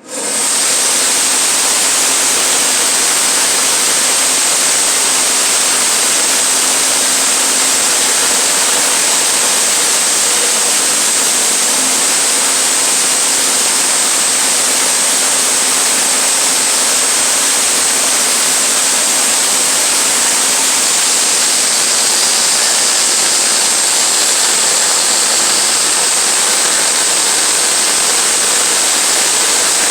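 Sawmill running and cutting a slab off a large oak log: a loud, steady cutting noise with a high whine and a lower engine hum, starting abruptly.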